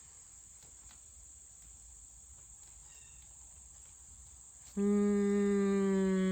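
Crickets chirring steadily in the background. About five seconds in, a woman starts a loud, sustained hummed vocal tone on one low, steady note. It is the opening of a channeled light-language toning.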